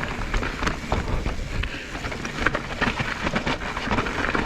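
Mountain bike descending a steep trail of loose rocks: tyres crunching and skittering over stones, with many quick clicks and rattles from the bike and a steady rush of wind on the microphone.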